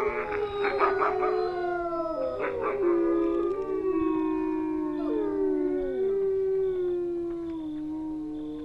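A pack of wolves howling in chorus: several long howls at different pitches overlap and slowly glide down and up. Short yips and barks break in near the start and again about two and a half seconds in.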